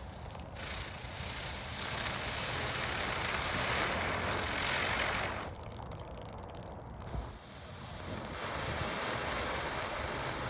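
Consumer firework fountain spraying sparks with a steady rushing hiss that cuts off abruptly about five seconds in; a short pop follows and a second spray of hiss builds again near the end.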